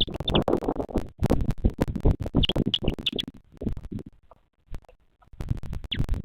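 Loud scratching and rustling close to the microphone of a bearded vulture nest camera, full of sharp clicks, that pauses for about a second past the middle, with a few short high chirps at the start, a little after halfway, and near the end.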